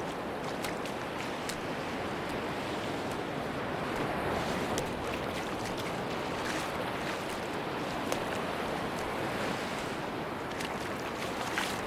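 Sea surf washing on a beach: a steady rushing wash that swells and eases slowly, with faint scattered crackles on top.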